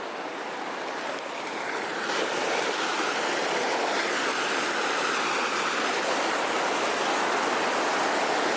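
Rushing water of a stream and waterfall, a steady noise that grows louder over the first couple of seconds.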